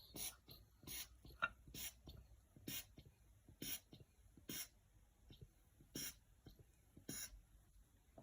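Faint hand-pump strokes, a short hiss of air about once a second, pressurising a sealed two-stroke engine for a leak-down test.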